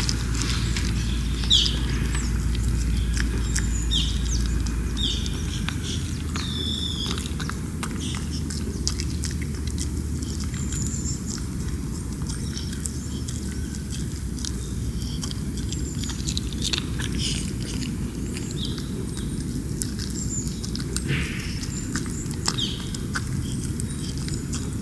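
Small birds chirping in short, quick falling calls, scattered through the stretch, over a steady low background rumble, with light scattered clicks and taps.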